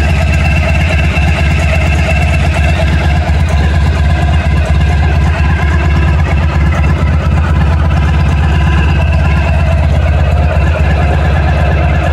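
1991 Honda ST1100's V4 engine idling steadily, with a rattling noise from the front near the engine whose cause the owner doesn't know.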